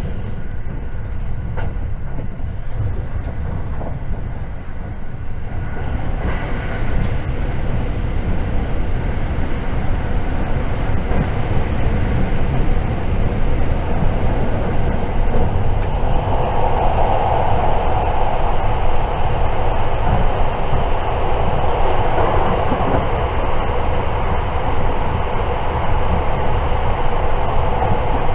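Interior running noise of a JR 681 series limited-express electric train: a steady rumble of wheels on rail that grows louder about halfway through.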